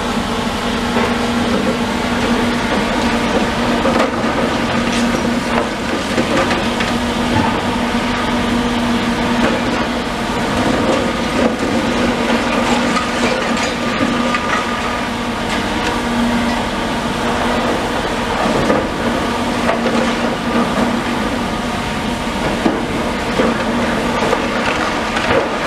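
Demolition machinery running steadily, a constant engine hum, with frequent crunching, clattering knocks of debris being broken and moved.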